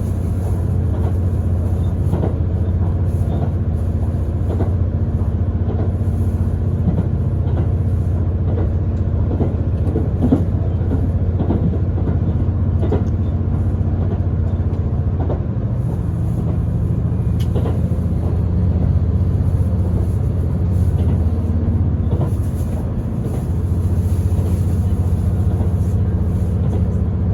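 Passenger cabin of a JR limited express train under way: a steady low drone from the running train, its pitch shifting about halfway through, with scattered faint clicks and knocks.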